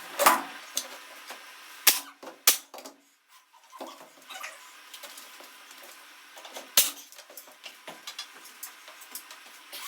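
Sharp knocks or snaps: four loud ones spread over several seconds, with lighter ticks and a faint hiss between them.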